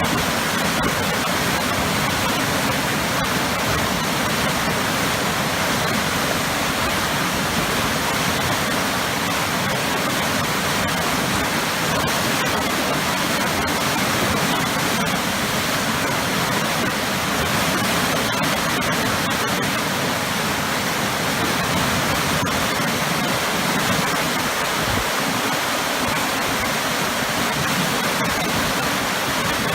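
Waterfall with powerful churning water: a loud, steady rush that stays even throughout.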